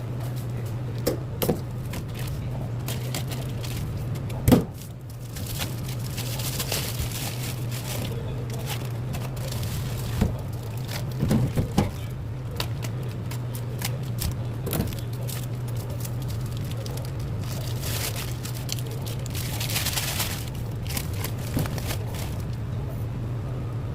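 Eating sounds at a bowl of seolleongtang (beef bone soup): scattered clinks and knocks of utensils, the loudest about four and a half seconds in, and a few short noisy stretches. A steady low hum runs underneath.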